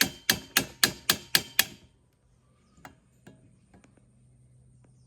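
Rapid hammer blows, about four a second with a short ring after each, stopping about one and a half seconds in; then a few faint taps over a low hum.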